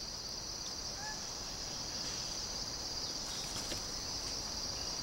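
Steady high-pitched chorus of insects, cricket-like and unbroken, with a couple of faint short bird chirps about a second in.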